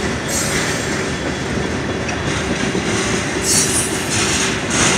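Freight train of tank cars and covered hoppers rolling steadily past a road crossing, its steel wheels running over the rails with a continuous noise that brightens with a higher hiss near the end.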